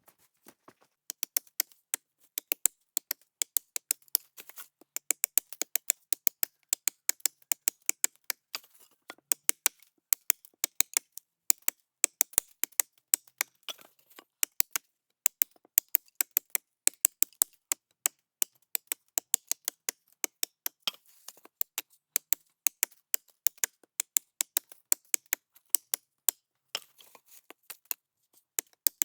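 Wood being chopped with a hand tool: a fast run of sharp knocks, about three or four a second, broken by a few short pauses.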